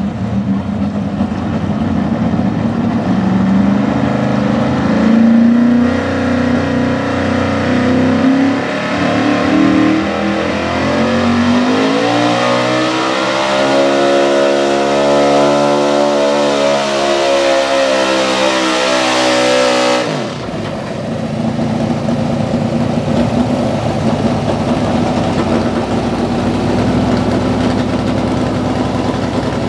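Big-block engine of a 4x4 pulling truck running hard under load, its revs climbing and holding high, then dropping off abruptly about twenty seconds in. Afterwards an engine runs steadily at lower revs.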